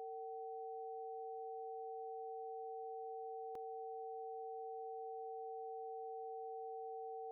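Two steady pure sine tones sounding together: the root Bb at 460.8 Hz and G at about 776.7 Hz of the Harmonics of Nature tuning scale, forming its major sixth interval.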